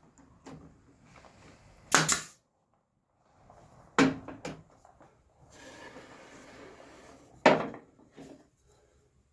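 Mitered wooden frame pieces being handled and fitted together, with three sharp wooden knocks about two seconds apart and a longer rubbing sound between the second and third.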